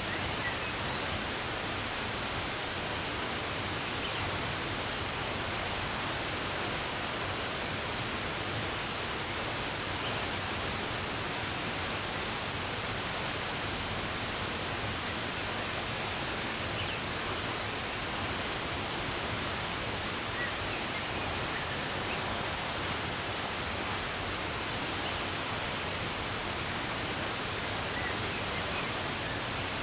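Steady, even rush of running water, with faint, scattered bird chirps above it.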